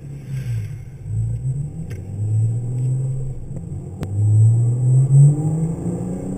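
Car engine heard from inside the cabin while driving, its note climbing in pitch and dropping back several times, loudest about four to five seconds in. A single sharp click sounds about four seconds in.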